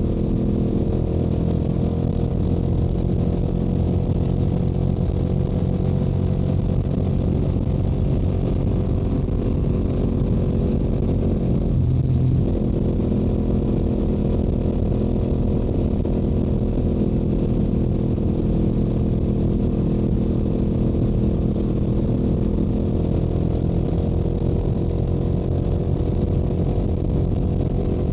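Yamaha YZF-R7's 689 cc parallel-twin engine, heard through its stock exhaust while cruising at highway speed, with a steady engine note that drifts slowly in pitch. About twelve seconds in, the note briefly breaks and shifts pitch.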